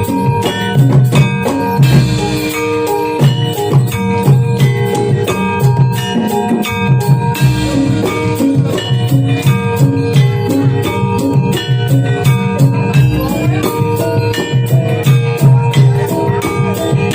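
Live Javanese jathilan (kuda kepang) dance music from a gamelan-style ensemble: hand drums and struck metal percussion playing in a fast, steady rhythm, with ringing pitched tones.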